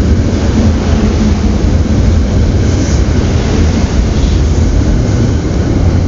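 SEPTA Silverliner electric commuter train passing close by at speed: a loud, steady rumble of wheels on rail.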